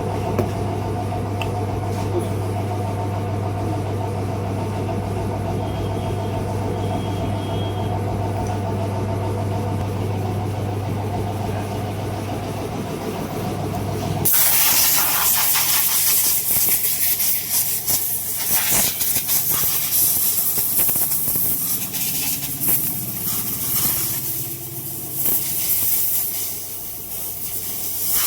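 A steady low machine hum that stops abruptly about halfway through and gives way to a louder, uneven hissing rush of air in pulses.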